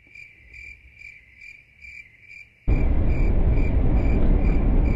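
Cricket chirping steadily, about two short pitched chirps a second. About halfway through, a loud low rumbling noise cuts in suddenly and covers it.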